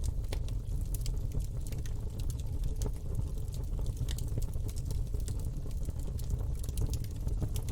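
Campfire burning and crackling, with irregular sharp pops and snaps over a steady low rumble of the flames.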